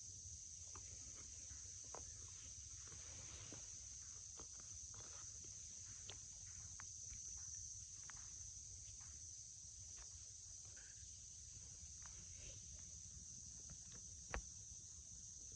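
Faint, steady high-pitched chirring of insects, with scattered light rustles and clicks and one sharper click near the end.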